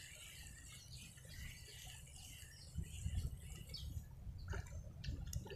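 Faint chirping of small birds over a low rumble, with a few faint clicks near the end.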